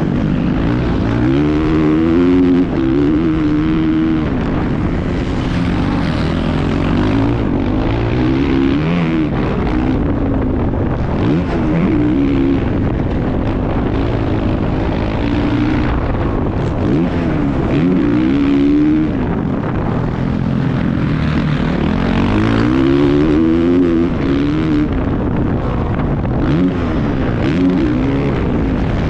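Motocross bike engine at full throttle on a ride, its pitch rising and then dropping again and again as it revs through the gears and backs off, over a steady rush of noise.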